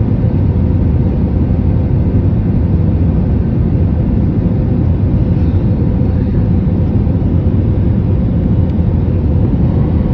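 Airliner cabin noise on approach: a steady roar of engine and airflow heard from inside the cabin, with a faint steady hum.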